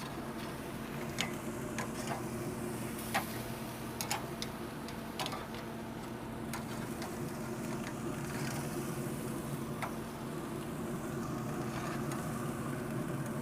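Scattered sharp clicks of metal tongs on a grill grate as chicken halves are flipped, over a steady low hum.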